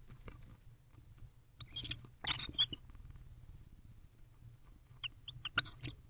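Barn owls in a nest box making two bursts of short, high chittering and scratching sounds, about two seconds in and again near the end.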